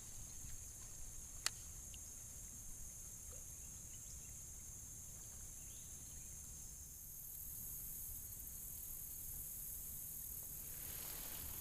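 Steady high-pitched insect chorus, growing louder about seven seconds in. A single sharp click sounds about a second and a half in.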